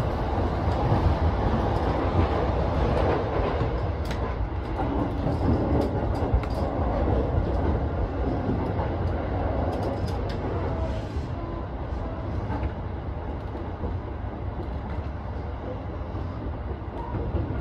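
JR East E233-7000 series electric train running, heard from inside the leading car: a steady rumble of wheels on rail, with a few sharp clicks at about four, six and ten seconds in. The rumble eases a little in the second half.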